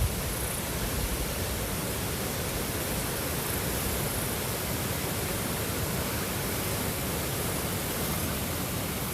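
Steady rushing water, an even noise at a constant level with no swells or breaks.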